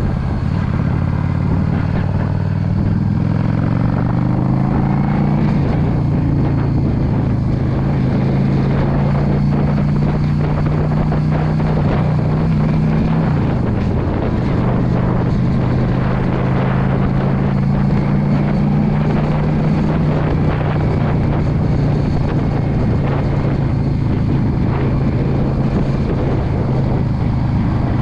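2016 Yamaha V Star 650's V-twin engine pulling the bike along the road, its pitch climbing over the first few seconds as it accelerates, then holding steady, with a brief dip about halfway through. Wind noise on the microphone runs under it.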